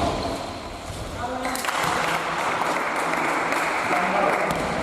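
Crowd applauding and cheering in a gym, swelling up about a second and a half in, with voices over it.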